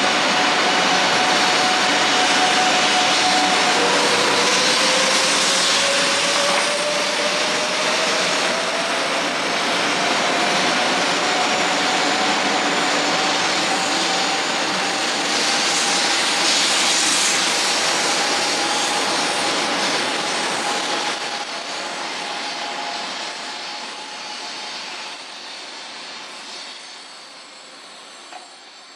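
500 series Shinkansen train accelerating away from the platform: a steady rush of wheel and running noise with a traction-motor whine that climbs slowly in pitch. The sound fades away over the last several seconds as the train leaves.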